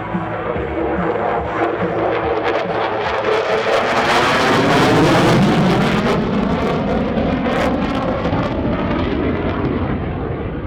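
F-16C Fighting Falcon's jet engine passing overhead in a flyby, building to a peak about halfway through and then fading.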